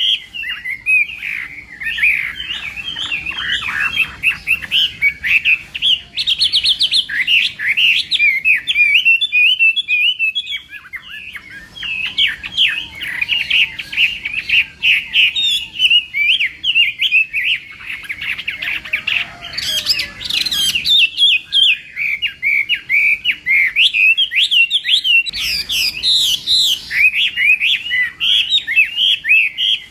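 Chinese hwamei singing a long, rapid, unbroken run of varied whistled and chattering phrases, with two short lulls, about a third and two-thirds of the way through.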